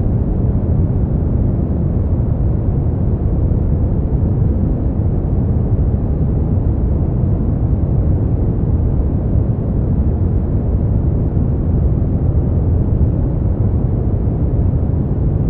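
Brown noise: a steady, deep rumbling hiss, strongest in the low end and falling away toward the highs, with no changes or events.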